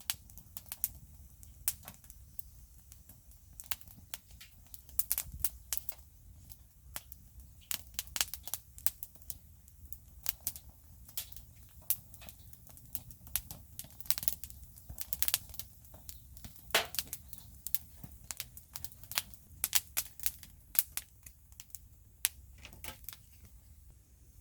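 Wood fire crackling: irregular sharp pops and snaps, sometimes in quick clusters, over a low steady rumble.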